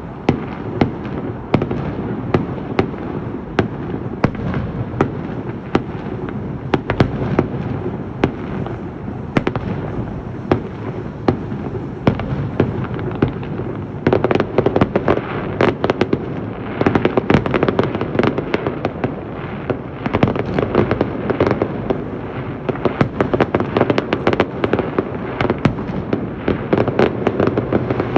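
Fireworks display: a steady run of sharp bangs, about one or two a second at first, then denser rapid volleys through the second half.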